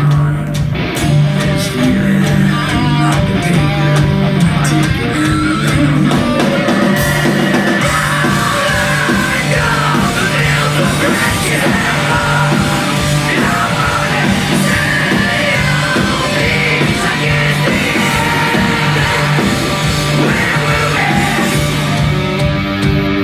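Heavy rock band playing live and loud, with distorted electric guitars and drums under shouted, screamed singing.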